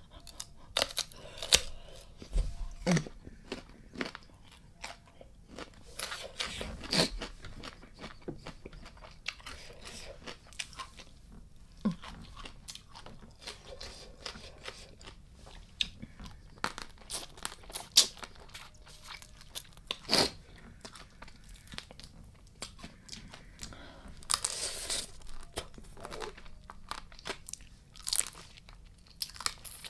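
Close-up eating of spicy blue crab salad: chewing with irregular crunches and clicks, some louder than others.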